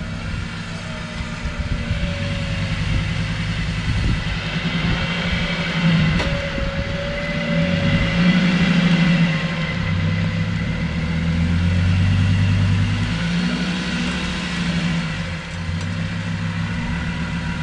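Off-road 4x4's engine running under load, its pitch rising and falling as the throttle is worked.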